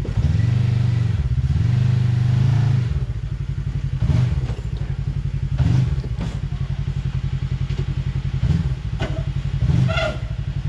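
Side-by-side UTV engine revved in strong bursts for about the first three seconds, then running lower with short throttle blips while the machine climbs over rock. Several sharp knocks and clunks come through in the second half.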